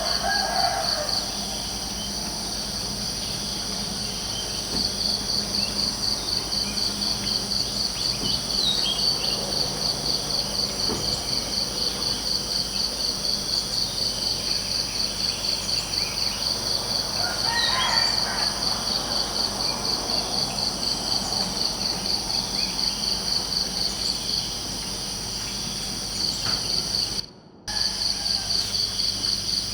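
Crickets chirping in a rapid, even, high-pitched pulse that pauses twice, with a few faint bird chirps. The whole track cuts out for a moment near the end.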